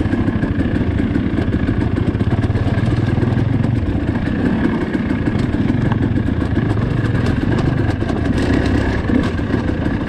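Dirt bike engine running steadily while being ridden over rough trail, with frequent clicks and rattles scattered through it.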